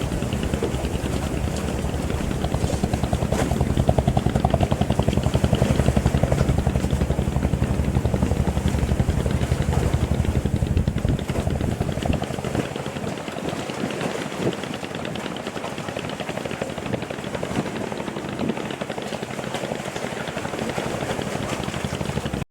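Fishing boat's engine running with a fast, even chugging and a deep rumble. About halfway through the deep rumble falls away, leaving a lighter rattle with wind and water noise.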